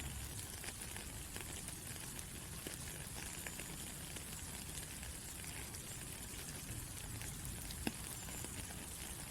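Steady rain falling, an even hiss with scattered drop ticks; one sharper drop stands out near the end.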